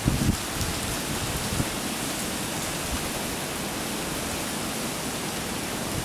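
Steady rain falling during a thunderstorm, an even hiss, with a brief low rumble at the very start.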